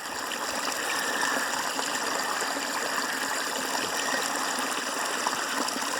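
Running water: a stream flowing steadily, a constant rushing trickle.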